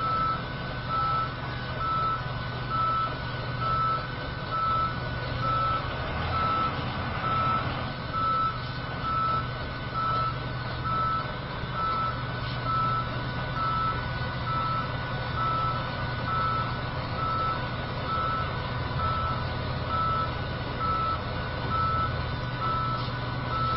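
Dump truck's reversing alarm beeping steadily, about one beep a second, over the truck's engine running.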